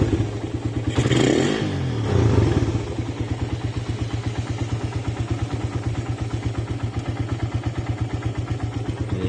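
Motorcycle engine on a 28 mm Keihin carburetor, blipped twice in the first couple of seconds and then settling to a steady, even idle.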